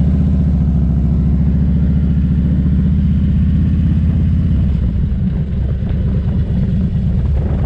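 Harley-Davidson motorcycle's V-twin engine running steadily under way, heard from on the bike. It gets a little quieter about two-thirds of the way through.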